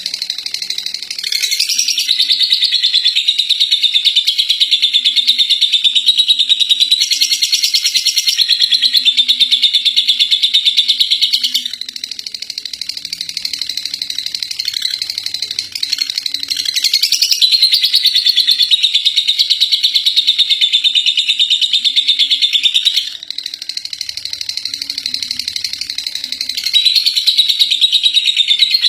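Lovebird's 'ngekek': a long, unbroken, very rapid chattering trill, high-pitched and continuous, swelling louder and easing softer in stretches of several seconds.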